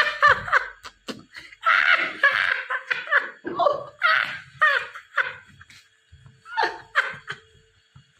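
High-pitched laughter in repeated short bursts with gliding pitch and brief pauses between them.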